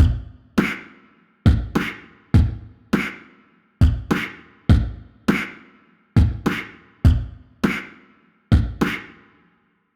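Music: a drum pattern of single heavy hits, each booming low and ringing out briefly. The hits come about two a second in a repeating, uneven rhythm.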